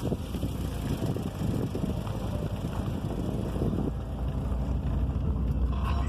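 Wind buffeting the microphone: a continuous, uneven low rumble that swells and gusts irregularly.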